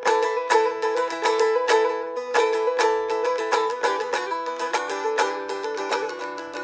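A solo plucked string instrument playing an improvisation: quick, rapidly picked notes over steady ringing drone pitches.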